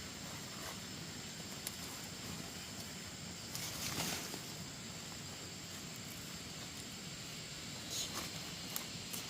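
Steady outdoor background hiss with a few soft rustles or steps, one around the middle and a couple near the end.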